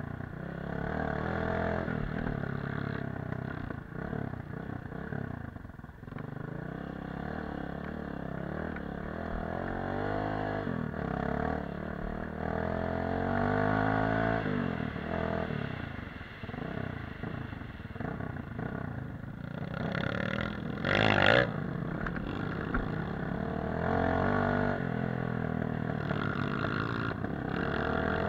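Dirt bike engine revving up and down with the throttle while riding, the pitch rising and falling again and again. About three-quarters of the way through comes a brief, louder burst.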